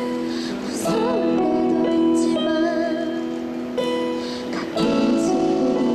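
Live acoustic song: a sung melody with vibrato over sustained chords and guitar, with a few sharp strums or hits along the way.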